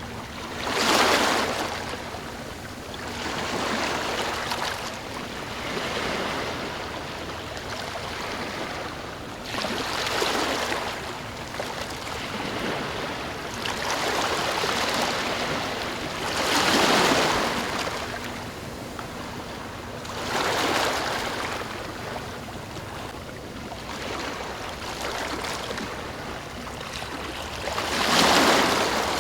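Ocean waves washing in, one surge of surf every few seconds over a steady wash of water; the biggest come about a second in, midway and near the end.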